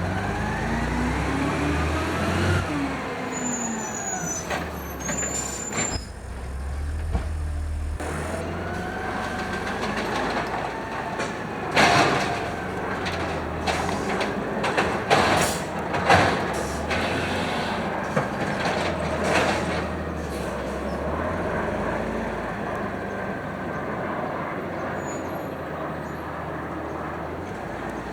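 Automated side-loader garbage truck working a recycling route: its engine and hydraulics rev up and down, with brief high squeals a few seconds in. About halfway through comes a run of sharp loud bangs, the arm slamming the recycling cart against the hopper to empty it.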